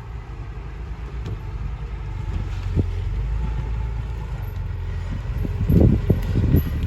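Heavy diesel earthmoving machinery running with a low rumble that grows louder, with a clunk about three seconds in and a cluster of clunks near the end.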